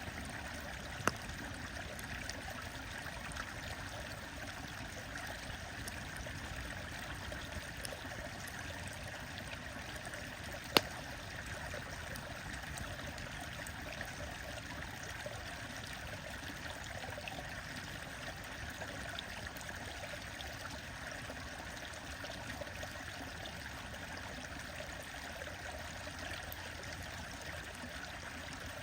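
A stream running steadily, with a wood fire crackling over it: scattered small pops, a sharp crack about a second in and a louder one near the middle.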